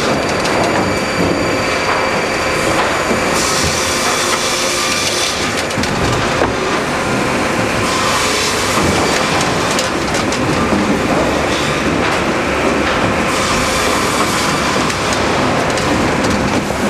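Sawmill line for pallet boards running: steady machinery noise with many small knocks, and a high hiss that strengthens and fades every few seconds.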